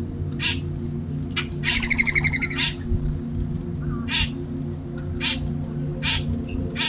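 Birds at a feeder giving short, harsh calls about once a second, with a longer stuttering call about two seconds in. A steady low hum runs underneath.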